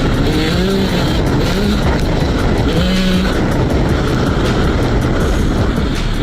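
KTM SX 125 two-stroke motocross engine being ridden hard, its pitch climbing as it revs, once about half a second in and again near three seconds, over steady engine and riding noise.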